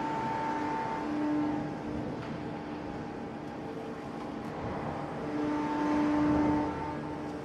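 Hydraulic forging press machinery running: a steady two-note whine that sounds for about a second at the start and again from about five to six and a half seconds in, over a broad mechanical rumble.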